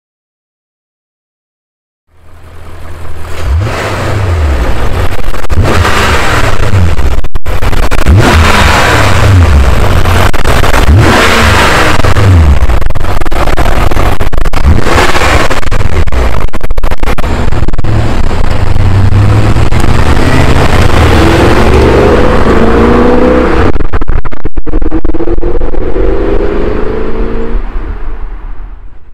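BMW E39 M5's 4.9-litre S62 V8 through a Dinan axle-back exhaust, starting about two seconds in and revved repeatedly, its pitch climbing and falling with each rev. Near the end it pulls more steadily with slowly rising pitch.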